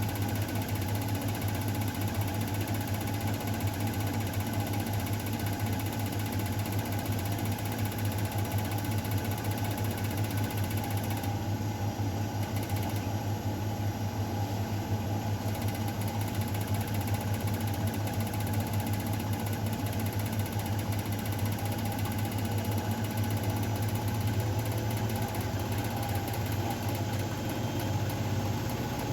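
Miele Novotronic W912 washing machine running steadily, its motor and drum giving a constant low hum with no pauses.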